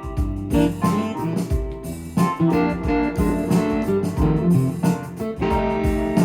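Korg Pa1000 arranger keyboard playing a factory style: a plucked guitar sound over a backing with bass and a steady beat.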